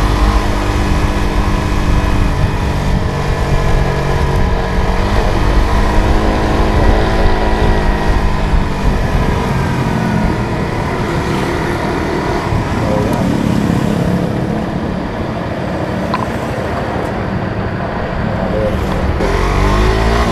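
Suzuki GSX-R150's single-cylinder engine running while the motorcycle is ridden, revving up near the start, dropping in pitch about five seconds in, easing off for a stretch later and rising again near the end.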